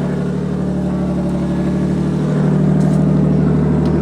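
Lexus engine idling through its old single-exit exhaust, a steady low drone that grows a little louder about two and a half seconds in.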